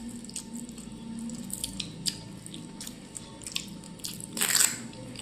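Wet eating sounds of a person eating rice with mushroom curry: scattered small smacks and clicks of chewing, with one louder rushing sound about four and a half seconds in.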